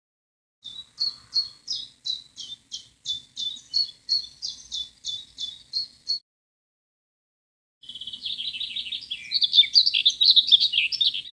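Recorded birdsong clips edited together with dead silence between them. First comes a steady series of short, high, down-slurred notes, about three a second. After a pause of a second and a half, a louder, dense, jumbled warbling song starts and runs until it cuts off abruptly.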